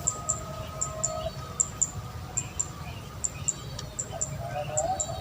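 Bird calls in open country: a high, short double chirp repeated a bit more than once a second, over a faint low rumble.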